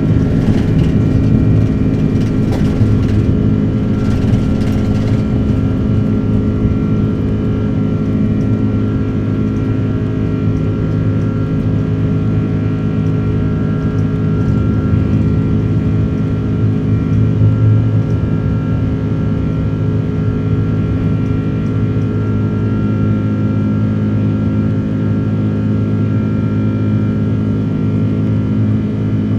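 Airbus A330-300's Rolls-Royce engines heard from inside the passenger cabin, running steadily at high power: a loud, even drone with several steady engine tones over a rushing noise.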